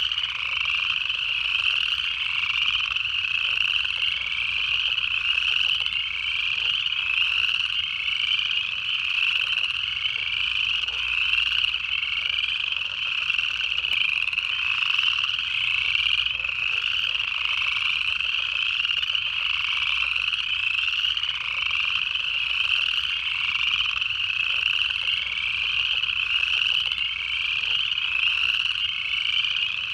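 Dense chorus of upland chorus frogs, many overlapping ascending trills repeating steadily without a break.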